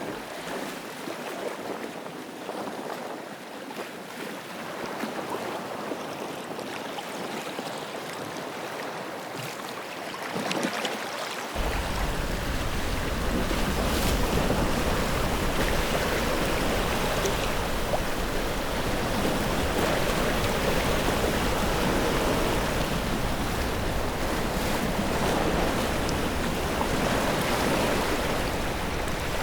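Steady outdoor noise without speech, with a deep low rumble cutting in suddenly about twelve seconds in and running on steadily.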